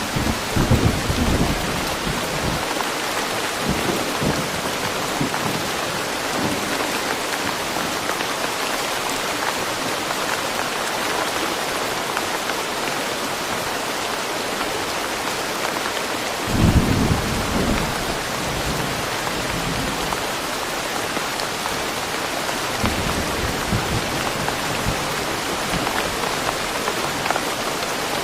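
Steady rain falling in a forest, an even hiss throughout. Brief low rumbles break through about a second in and again, louder, about 17 seconds in.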